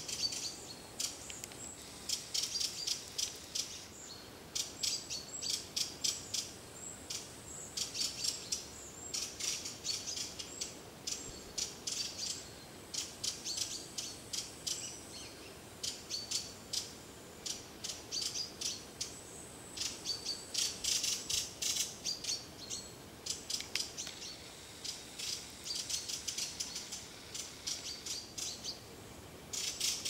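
Birds calling in the trees: runs of rapid, sharp, high-pitched chirps, almost a chatter, broken by short pauses.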